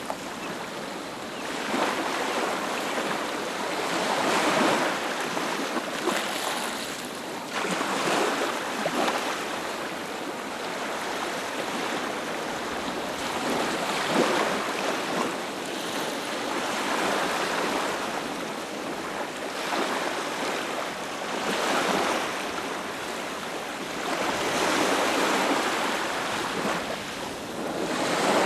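Ocean waves breaking on a beach, a continuous surf wash that swells and ebbs every few seconds as each wave comes in and draws back.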